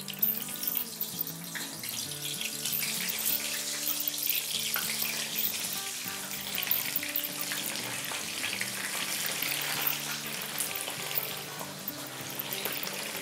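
Whole small round eggplants frying in a pan of hot oil: a steady sizzle with many small pops, starting as they go into the oil. Background music plays underneath.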